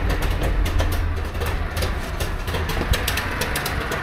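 Trabant 601's two-cylinder two-stroke engine idling with a fast, crackly beat on its freshly cleaned carburettor, whose idle is not yet properly set.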